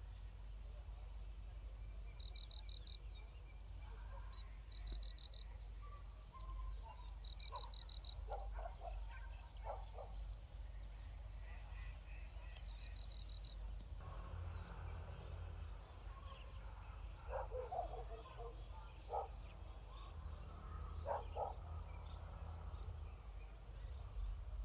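Rural outdoor ambience of small animal calls: short chirping trills that recur every few seconds, and in places clusters of short, lower croak-like calls, over a steady low rumble.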